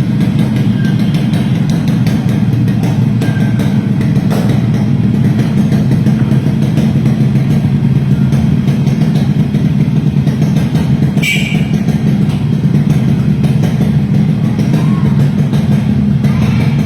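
Yamaha RXS 115 two-stroke single-cylinder engine running steadily, with background music.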